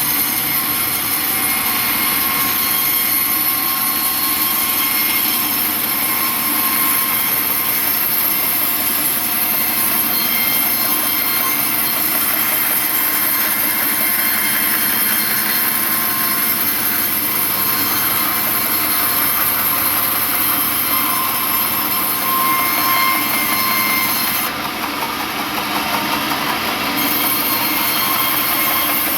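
Sawmill saw cutting a large log: the steady, loud rasp and whine of the blade running through the wood. The high hiss eases for a couple of seconds near the end, then returns.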